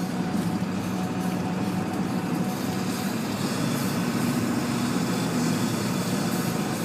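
Steady engine and road noise of a moving vehicle, a low, even drone that holds constant throughout.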